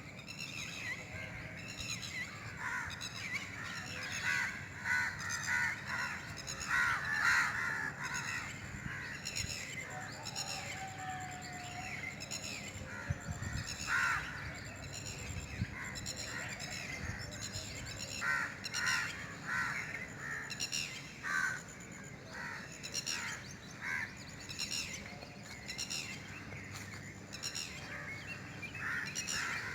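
Birds calling in the early morning, a dawn chorus of many short, repeated calls overlapping one another, with a steady low rumble beneath.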